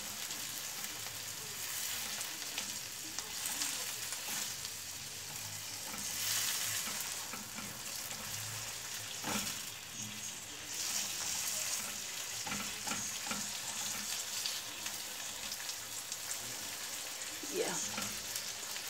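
Chopped onions and tomatoes sizzling in hot coconut oil in a pan, with scattered scrapes and taps of a spatula stirring them.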